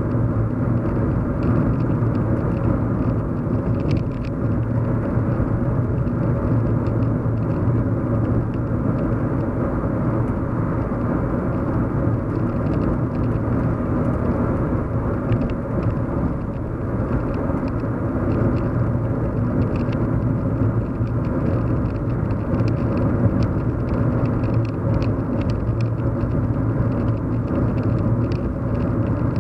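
Steady low hum of a car driving, heard from inside the cabin: engine and road noise with a deep drone.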